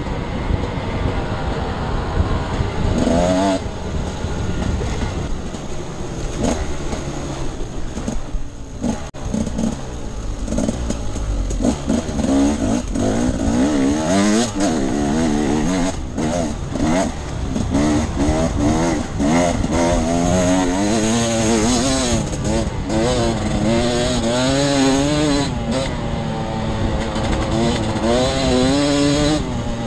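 Off-road enduro motorcycle engine under way, the revs rising and falling constantly as the throttle is worked and gears change. It eases off briefly about a third of the way in, then picks up with quick repeated rises and drops.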